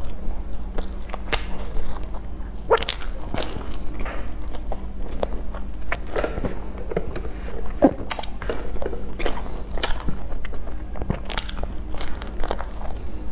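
Close-miked eating sounds: wet chewing and lip smacks from biting into a soft bun with a runny chocolate filling, an irregular run of sharp mouth clicks over a steady low hum.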